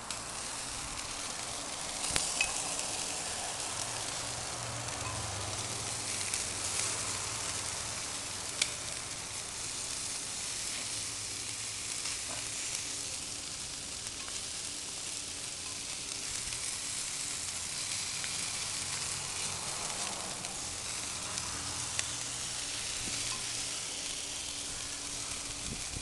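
Meat sizzling on a barbecue grill: a steady hiss with scattered sharp pops.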